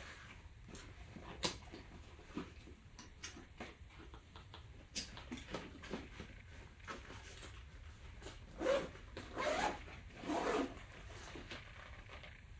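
Travel backpack being handled and zipped shut: light rustling and small clicks, then three short zipper pulls near the end.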